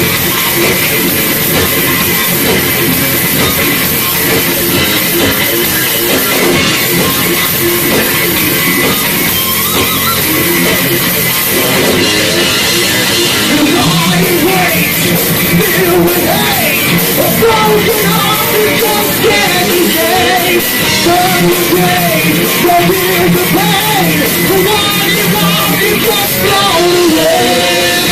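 A live heavy metal band playing loud, with distorted guitars, drums and a singer's voice. A wavering melodic line comes to the fore about halfway through.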